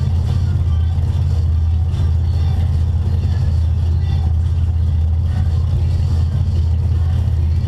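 Front-wheel-drive stock car's engine idling steadily, heard from inside its stripped cabin as a constant low drone.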